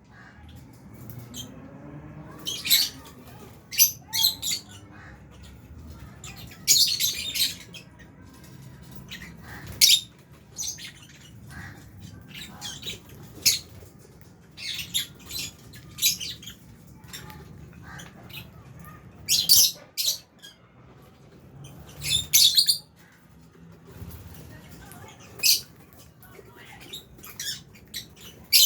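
A flock of lovebirds calling: short, shrill squawks and chirps in irregular bursts, several in quick runs, with the loudest clusters about seven, nineteen and twenty-two seconds in.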